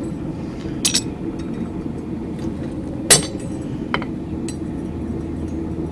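Hammer striking a chisel to cut feather grooves into hot steel angle iron on the anvil: a few sharp, ringing metal strikes, two loud blows about two seconds apart followed by a couple of lighter taps, over a steady low background hum.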